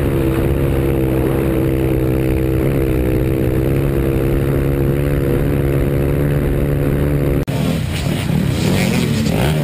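Dirt bike engine running at a steady, even pitch for about seven seconds. Then an abrupt cut, after which the engine note rises and falls as it revs.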